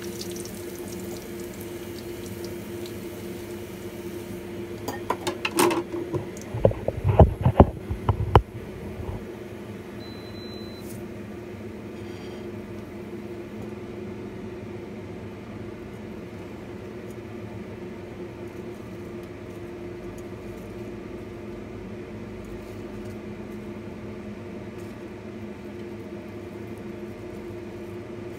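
Breaded pork chop deep-frying in oil, a light sizzle that fades within the first few seconds. Then a burst of knocks and clatter from about five to eight seconds in, after which a steady low hum carries on.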